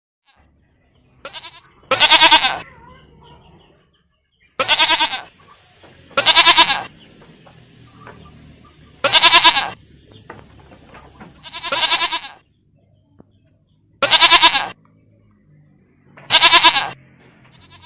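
Goats bleating: about seven separate wavering bleats, each around half a second long, coming every two to two and a half seconds.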